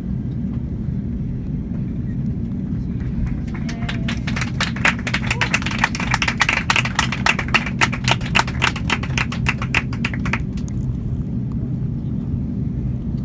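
Steady low cabin hum of a taxiing Airbus A350-900. Through the middle, for about seven seconds, it is overlaid by a rapid run of sharp clicks and pats that starts about three and a half seconds in and stops suddenly.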